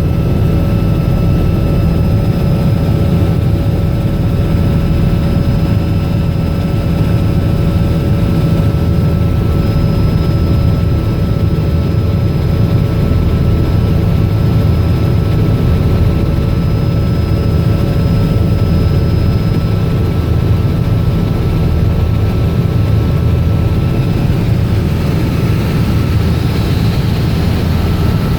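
Robinson R66 helicopter in flight: its turbine engine and rotor running steadily, a heavy low rumble with several thin, steady whines above it.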